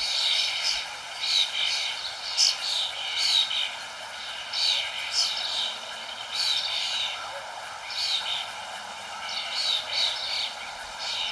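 Songbirds chirping, short high chirps coming in quick clusters again and again, over a steady rushing background noise.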